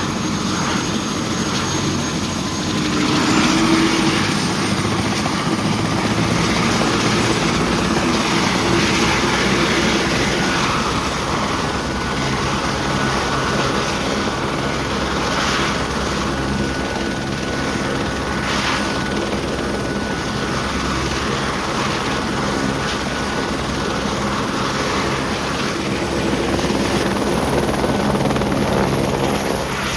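Helicopter running steadily, its rotor and engine heard continuously, with a faint high whine through much of it.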